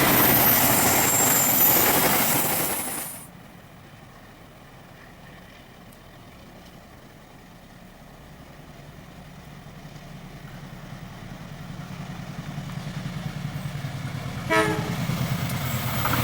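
Train passing loudly, cut off abruptly about three seconds in; then another train approaches, its rumble and wheel noise growing steadily louder, with a short horn blast near the end.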